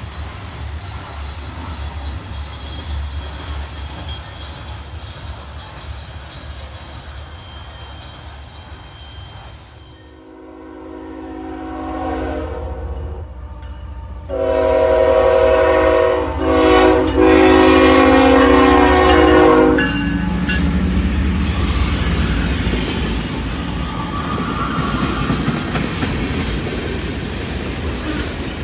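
Freight cars rolling past with a steady low rumble. About ten seconds in, a diesel locomotive's air horn sounds several blasts; the last is the loudest and is held about five seconds. The rumble of the train passing close follows.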